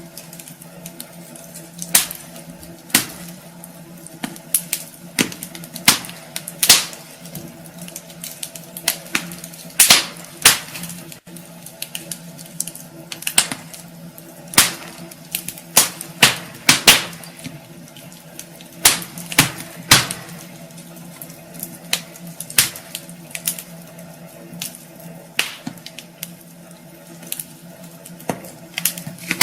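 Wood fire burning in a fireplace: irregular sharp crackles and pops, sometimes several in quick succession, over a faint steady hiss.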